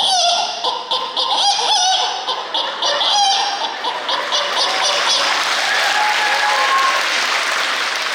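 A person imitating a hen cackling after laying an egg with quick gliding calls, then an audience breaking into applause about three and a half seconds in.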